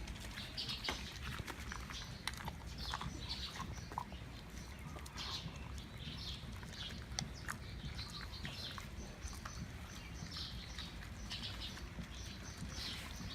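Siberian huskies chewing snacks: irregular short crunches and clicks.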